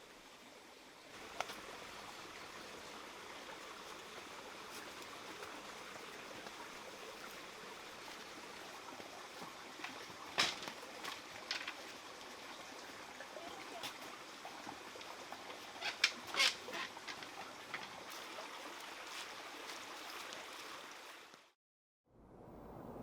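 A few short, harsh animal calls, a pair about halfway through and a cluster about two-thirds through, over a steady outdoor hiss. Near the end the sound cuts out briefly.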